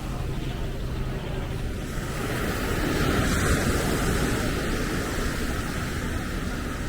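Outdoor seafront ambience: a steady rush of road traffic and surf, with a louder swell of noise that builds and fades in the middle.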